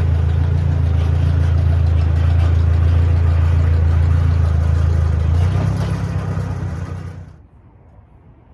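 Vehicle engine running steadily with a deep hum. It changes note about five and a half seconds in, then dies away about seven seconds in, as when the engine is switched off.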